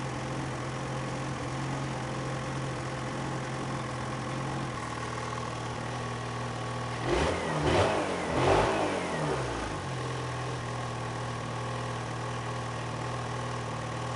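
Ski-Doo MXZ 600 E-TEC two-stroke snowmobile engine idling after a cold start, revved briefly a few times in quick succession around the middle, each rev rising and falling back to a steady idle.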